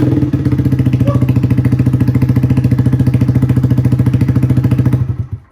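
A 2019 Honda Grom's 125 cc single-cylinder four-stroke engine idling steadily through a newly fitted Vance & Hines Hooligan exhaust, with a loud, even putter. About five seconds in it is switched off and dies away quickly.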